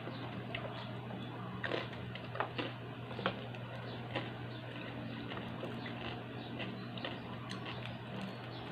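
A person chewing and eating rice with their hands, with small scattered clicks and smacks, over a steady low hum.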